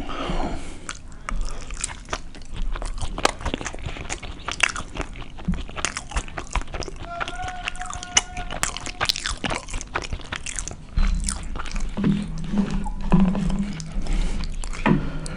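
Close-miked chewing and biting of a burrito, with many wet mouth clicks and smacks. A low humming sound joins in over the last few seconds.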